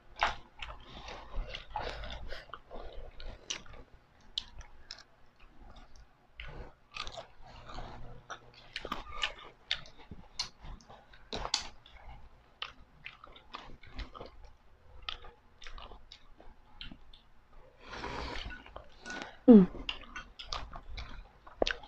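Close-miked chewing and crunching of crisp fried food, an uneven run of crunches, bites and wet mouth sounds. About two and a half seconds before the end comes a short, louder mouth sound that falls in pitch.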